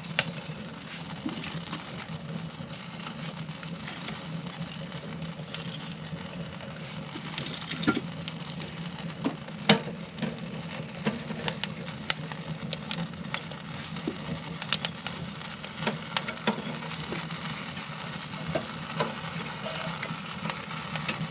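Wood fire in a tent wood stove burning hard with its damper open: a steady rush with crackling and sharp pops scattered through, the loudest pop about ten seconds in.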